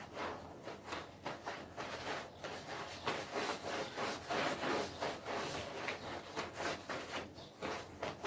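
Repeated scraping or scrubbing strokes on a carpet, about two to three a second, uneven in strength.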